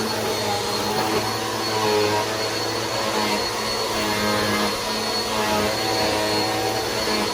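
Bissell PowerForce Helix upright vacuum running steadily: a constant motor drone with a thin high whine on top, and its middle tones shifting slightly in pitch.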